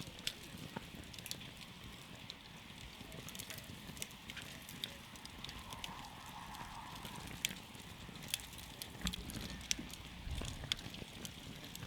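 Wood campfire crackling: irregular sharp pops and snaps over a steady low hiss and rumble of burning.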